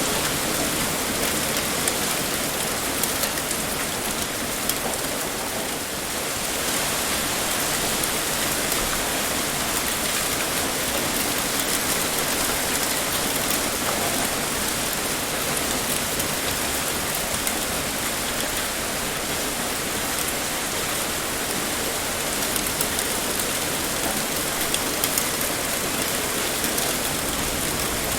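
Heavy rain pouring steadily, with a dense hiss and scattered drops ticking on a surface. The level dips slightly for a moment about five seconds in.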